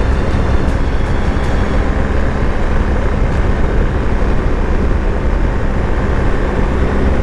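BMW R 1250 GS Adventure motorcycle riding at a steady pace: the boxer twin engine's drone under a loud, steady rush of wind on the microphone, with a few faint ticks in the first second and a half.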